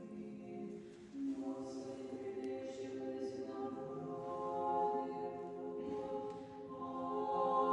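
Choir of nuns singing Orthodox liturgical chant in sustained, held chords, moving to a new chord about a second in.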